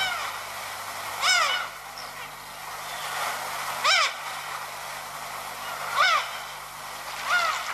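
A bird calling four times, roughly every two seconds. Each call is short and arched in pitch, heard over a steady background hiss.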